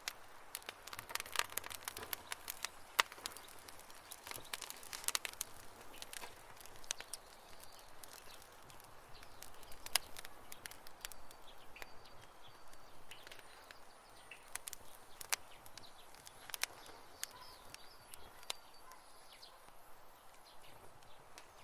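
Wood campfire crackling, with irregular sharp snaps and pops over a soft hiss; the pops are thickest in the first half. Faint high chirps come in and out in the second half.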